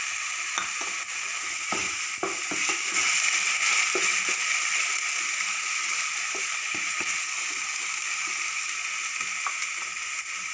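Chopped tomato sizzling in hot mustard oil with fried garlic, ginger and onion paste, as a wooden spatula stirs and scrapes the pan with scattered clicks and knocks, mostly in the first half.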